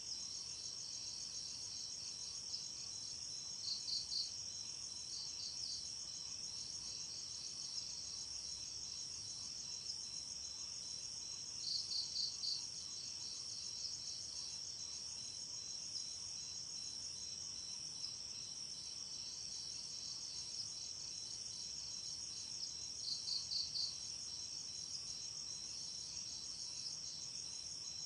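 Night insect chorus: crickets trilling steadily in a high, fast-pulsing drone. Over it, a louder call breaks in three times as a quick group of three or four chirps.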